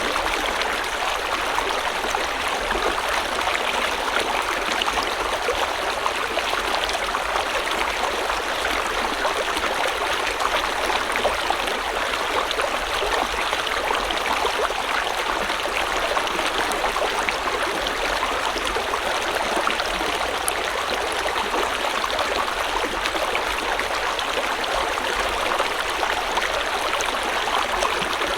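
River water running steadily over stones, a constant dense rush with fine splashing and gurgling detail.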